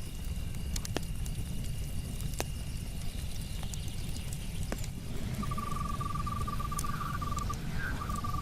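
Campfire crackling over a steady low rumble, with sharp pops of burning wood about a second in, past two seconds and near five seconds. A steady high insect chirr fades out around four seconds. From about five seconds a rapid trilling night call starts, pauses briefly and resumes near the end.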